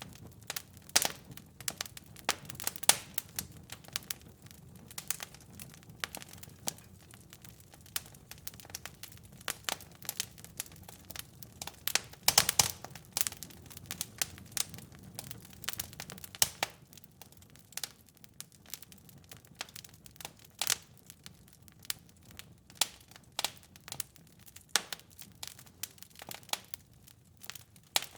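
Wood fire burning in a fireplace: irregular crackles and sharp pops over a soft low hiss of flame, with a brief flurry of louder pops about twelve seconds in.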